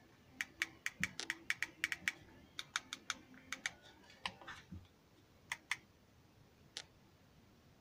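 Small plastic remote-control buttons being pressed: an irregular run of about two dozen quick, sharp clicks over the first six seconds, then one more click near the end.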